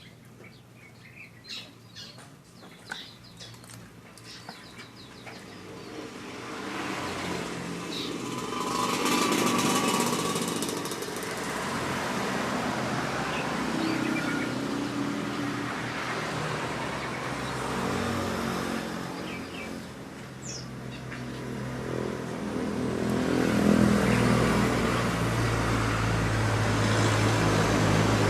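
Small birds chirping for the first few seconds, then a motor's running noise builds up and swells, loudest near the end.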